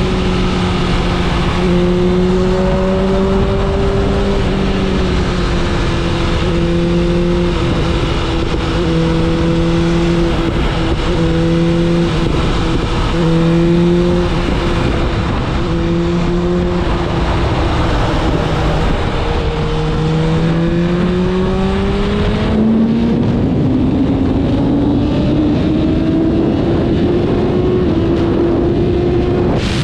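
BMW S1000RR's inline-four engine running at a steady cruising pitch with small rises and dips, under a constant rush of wind. About two-thirds of the way through it climbs smoothly in pitch as the bike accelerates.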